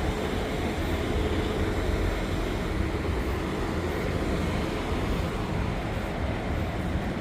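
Steady low rumble and hiss of vehicle engines and traffic, with no distinct events.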